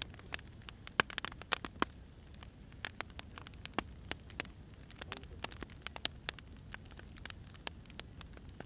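Firewood burning with irregular sharp crackles and pops, several a second, over a low steady rush of flame.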